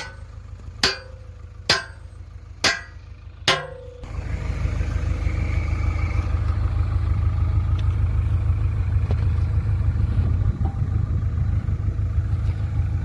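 JCB 3DX backhoe loader's diesel engine running low, with five sharp metallic clangs about a second apart. About four seconds in the engine is throttled up and runs loud and steady.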